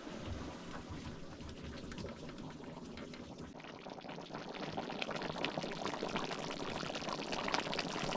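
Braised pork and potatoes simmering in a pot on a wood-burning stove: a busy bubbling that grows louder toward the end.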